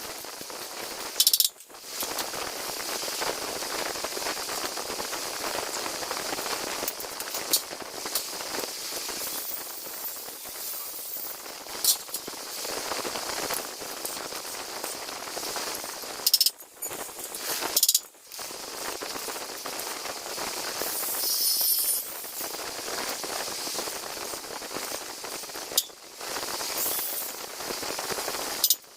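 Continuous crackling hiss of metalwork, with sharp metallic clinks and several short breaks.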